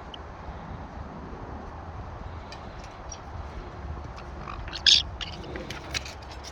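Wind buffeting the microphone as a steady low rumble. From about two and a half seconds in there are scattered short clicks and rustles, the loudest a sharp snap near five seconds.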